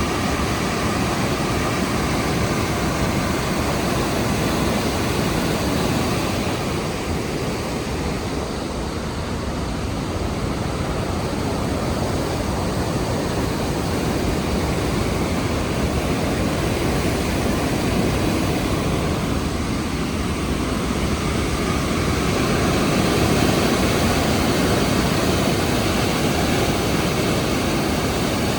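Rhine Falls' water crashing over the rocks: a loud, steady rush of falling water.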